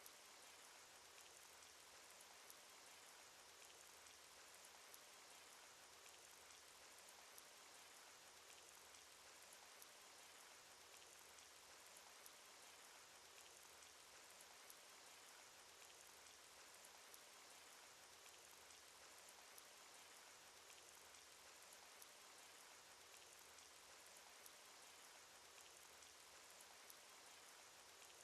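Cartoon rain sound effect: faint, steady rain hiss with scattered sharp raindrop ticks.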